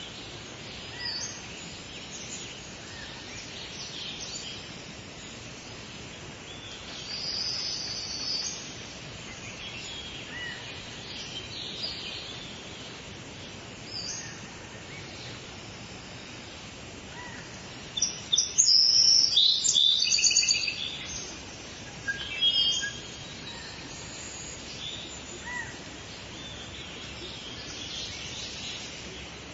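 Several songbirds chirping and singing over a steady background hiss, with a loud burst of rapid, repeated high notes about two-thirds of the way through.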